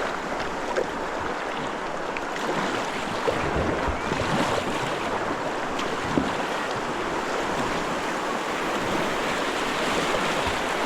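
River water rushing steadily, with two brief sharp sounds about three and six seconds in.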